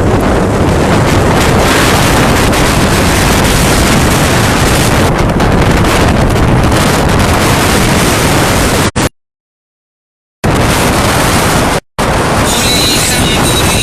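Strong wind blasting the microphone over crashing surf: a loud, steady rush. It cuts out to dead silence for about a second and a half partway through, and again for an instant shortly after.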